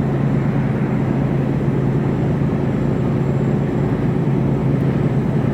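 Mercedes Actros truck cab interior while driving: the diesel engine's steady low drone with road noise, unchanging throughout.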